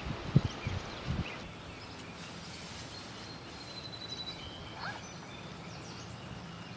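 Outdoor ambience with scattered short bird chirps and calls over a faint steady hiss. There are a few low thumps in the first second or so.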